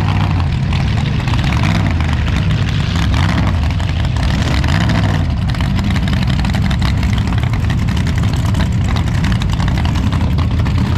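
Mega truck engine running loud and revving, its pitch rising and falling repeatedly.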